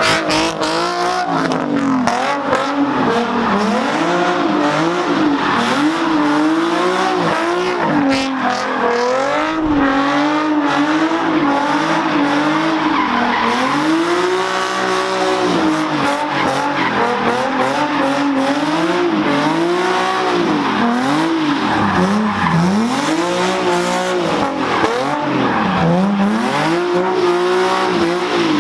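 Car engine revving hard and falling back over and over, its pitch swinging up and down every second or two, with tires squealing as the car drifts.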